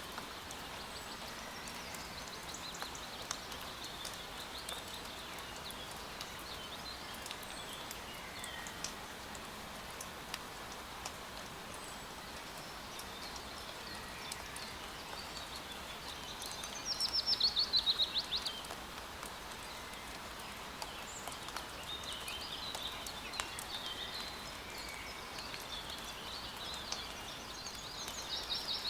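Steady rain falling in a forest, with scattered drop ticks, while songbirds sing. A loud, rapid trill falling in pitch stands out about two-thirds of the way through, and another begins near the end.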